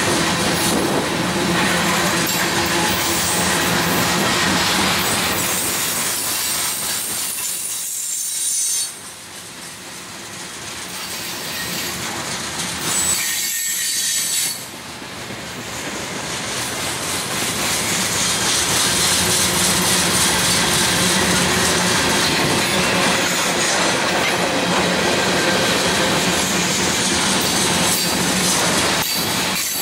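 Freight cars (tank cars and covered hoppers) rolling past close by: steel wheels rumble and clatter over the rail joints, with some high wheel squeal. The sound drops suddenly about nine seconds in and again about fifteen seconds in, then builds back up.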